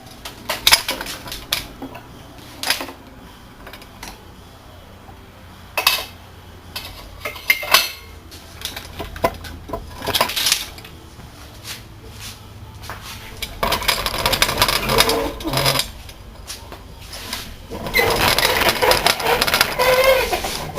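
Metal hand tools clinking and knocking against a big-block engine, with two longer spells of rapid clicking clatter, one past the middle and one near the end.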